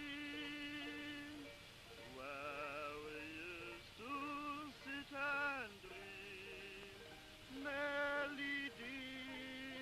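British soldiers singing a slow song, with long held notes, some of them wavering, and short breaks between the phrases.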